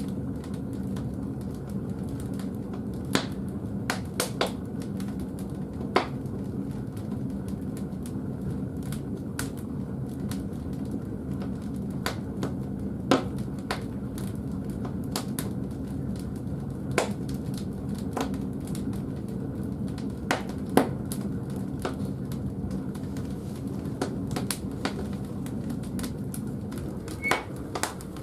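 Firewood burning in the firebox of a wood-fired bathhouse boiler: irregular sharp pops and crackles every second or two over a steady low hum.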